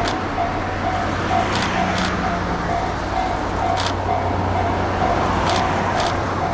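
Japanese railway level-crossing alarm ringing, a repeated bell-like tone about twice a second, over a steady rumble of running noise.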